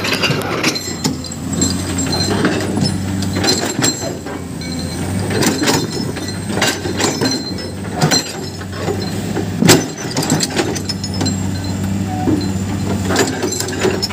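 Excavator diesel engine running steadily while stones and the bucket knock and clink irregularly, with one heavy knock near ten seconds in.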